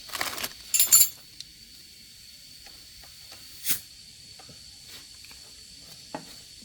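Short bursts of compressed air hissing, two in the first second and a shorter one a few seconds later, with a few faint clicks in between.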